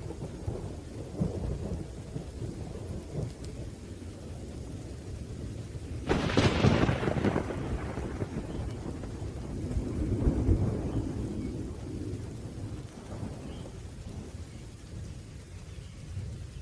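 Thunderstorm: thunder rumbling over steady rain, with a sharp clap of thunder about six seconds in that rolls away over a couple of seconds, and another rumble swelling around ten seconds.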